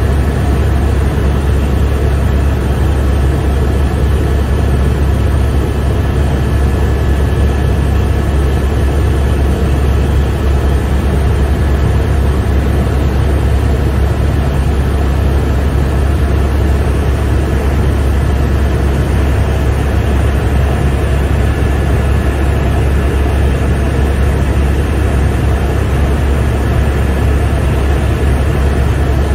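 Helicopter in steady flight, heard from inside the cabin: a heavy, constant low drone from the rotor with a thin steady whine above it.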